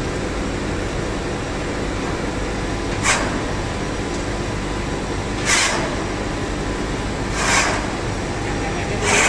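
Heat-exchanger tube-pulling machine running with a steady drone, broken by four short hisses about two seconds apart, as a tube is drawn out of the condenser.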